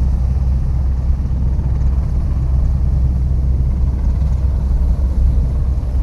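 F-35B Lightning II jet engine heard as a steady, loud low rumble.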